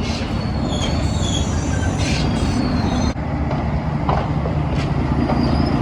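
Passenger train running on its rails: a steady low rumble with thin, high wheel squeals coming and going over the top.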